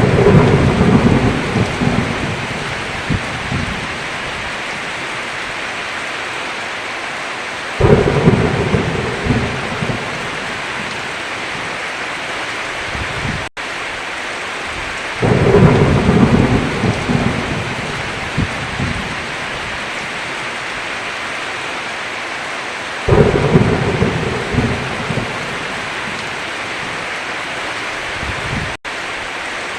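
Heavy rain falling steadily, with thunder rolling in four times, about every seven or eight seconds. Each thunder peal starts suddenly and rumbles low for a few seconds before fading. The sound cuts out for an instant twice.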